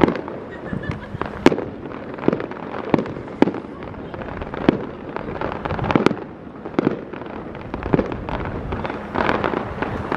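Aerial firework shells bursting overhead at a distance, a sharp bang roughly every second, sometimes two close together.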